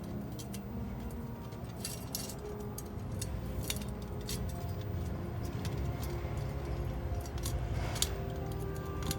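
Thin metal parts of a flat-packing mini fire stand clinking and clicking as they are handled and fitted together, over background music.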